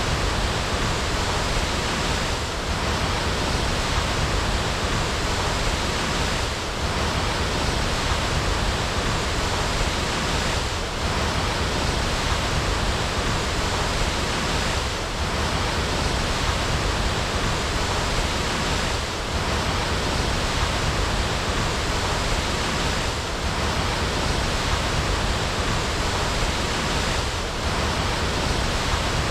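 Waterfall: a steady, dense rush of falling water, with a slight dip in level about every four seconds.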